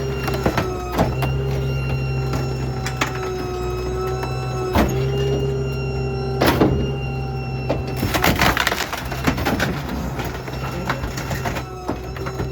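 Small New Way Diamondback rear-load garbage truck compacting dumped debris: the packer's hydraulics run with a steady whine over the engine hum, while wood and other junk in the hopper cracks and knocks as it is crushed, with a burst of crunching past the middle.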